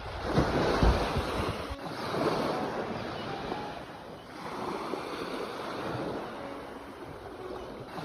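Sea waves breaking and washing in, the surge rising and falling about every two to three seconds, loudest about a second in. Low wind buffeting on the microphone comes with the first surge.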